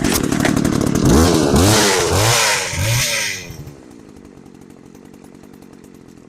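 McCulloch 3516 two-stroke chainsaw engine, running without its bar and chain, revved up and down about three times, then dropping back to a steady idle about four seconds in. It idles well.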